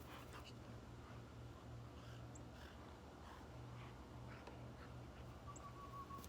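Near silence: a faint steady low hum with a few soft scattered ticks.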